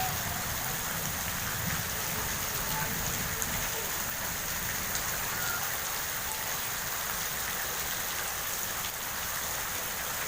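Heavy rain pouring down steadily, with faint scattered drips and ticks.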